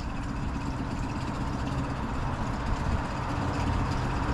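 A small wooden skiff's engine running steadily at idle speed, pushing the boat slowly along. The engine has just been serviced with new spark plugs after fouled plugs made it die.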